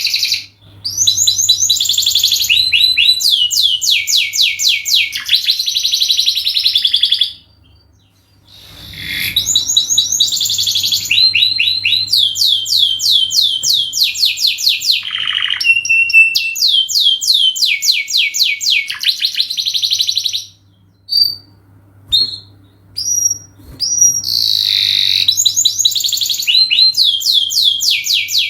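Canary singing a long, loud song of rapid repeated trills and chirps, broken by two short pauses, the second filled with a few single notes.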